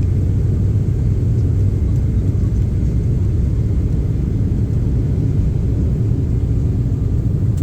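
Cabin noise of a KLM Cityhopper regional jet during takeoff: a steady, low rumble of its turbofan engines and airflow, heard from inside the cabin.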